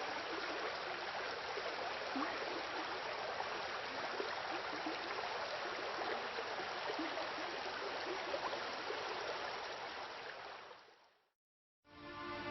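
Water rushing and splashing steadily, as from a waterfall and its stream. It fades out near the end, a short silence follows, and music begins.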